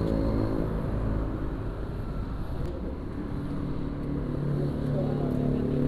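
A motor vehicle's engine running steadily close by, its pitch shifting slightly about halfway through.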